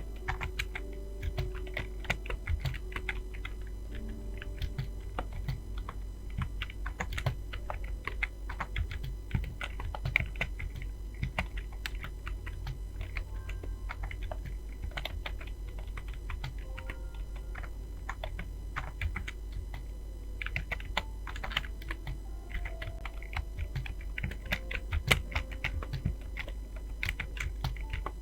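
Fast, continuous typing on a computer keyboard: a dense, irregular stream of key clicks, with faint music notes underneath.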